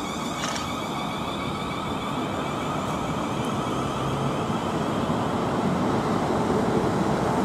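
Class 444 electric multiple unit pulling out of the platform, a steady rumble of wheels and running gear that grows louder as it gathers speed.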